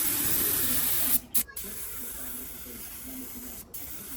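Compressed air hissing from an air gun in bursts. A loud blast cuts off about a second in, and a quieter steady hiss follows after a short break.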